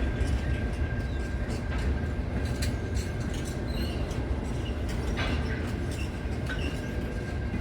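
Train running along the track: a steady low rumble with a thin, steady high whine and scattered sharp clicks.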